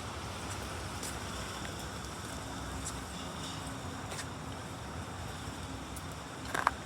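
Steady outdoor city background noise, mostly a low hum like distant traffic, with a few faint ticks and one short, sharp, louder sound near the end.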